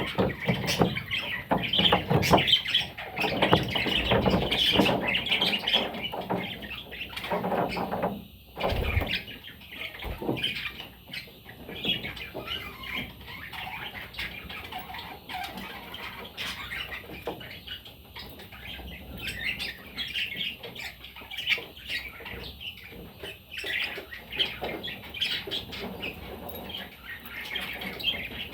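Pet budgerigars chattering and squawking without pause. The first six seconds or so are louder; after that it goes on more softly.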